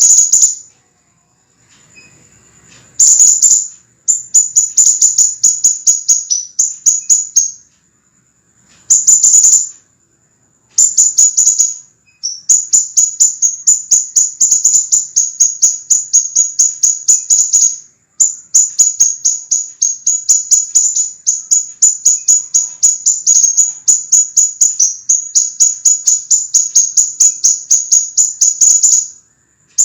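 Sepah raja, a minivet, singing rapid runs of high, sharp chirps at about five a second, each note dropping slightly in pitch. The runs come in bursts of a few seconds with brief pauses, and the longest carries on without a break through the second half.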